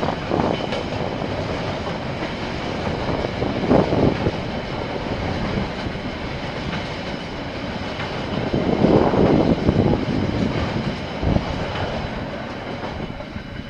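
A KiwiRail train rolling past, its wagons' wheels making a steady rumble and clatter on the rails. The sound swells louder several times and fades near the end.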